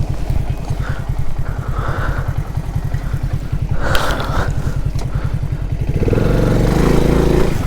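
Alpha-type moped's single-cylinder four-stroke engine idling with an even low put-put, then revving up louder about six seconds in as it pulls away. A short rattle about four seconds in.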